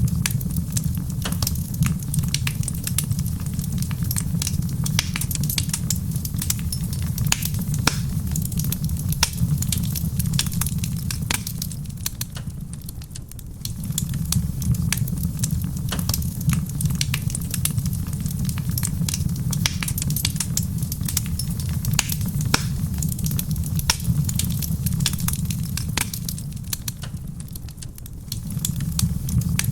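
Wood fire crackling in a stone fireplace, with frequent irregular sharp pops and snaps. Beneath it runs a steady low rumble that dips briefly twice, about halfway through and near the end.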